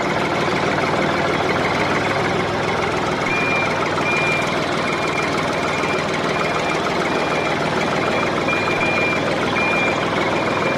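DIY mini tractor running steadily with a rattling engine-like noise. From about three seconds in, a high reversing beep repeats roughly every half second or a little more.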